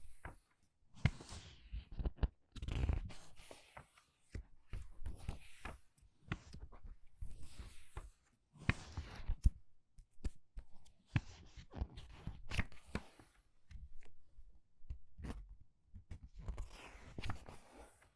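Book pages being turned quickly by hand, one after another: a papery swish and crisp crackle for each page, about one a second, with soft thuds as the pages settle.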